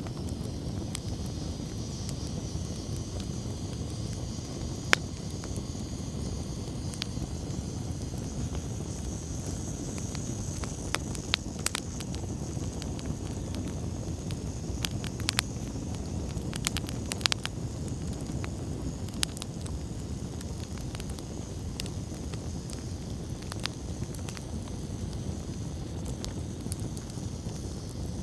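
Wood campfire burning with a steady low rumble, crackling and snapping with scattered sharp pops; the loudest pop comes about five seconds in, and a flurry of pops comes around the middle.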